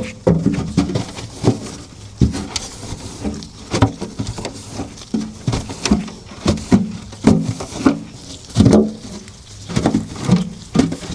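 Irregular knocks, clunks and clatters, several a second, with rubbing in between: objects being handled and scrubbed, as in cleaning refrigerator parts.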